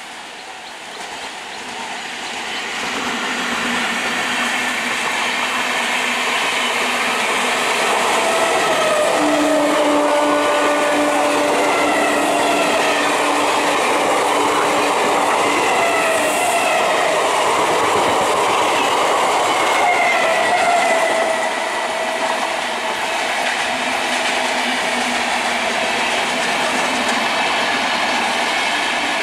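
Electric passenger trains running past at speed on parallel tracks: a steady rumble and clickety-clack of wheels on the rails that builds over the first few seconds. Thin whining and squealing tones from the wheels and running gear come and go above it.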